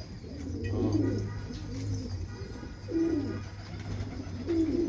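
Domestic pigeons cooing: several low, wavering coos, the clearest about three seconds in and near the end, over a steady low hum.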